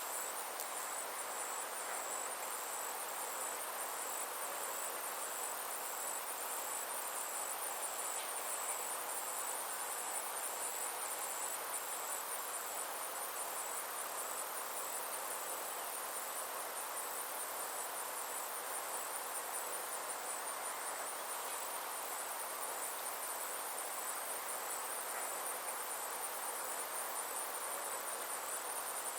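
Summer insects chirring steadily, a thin, high, rapidly pulsing trill that never pauses, over a soft, even wash of outdoor background noise.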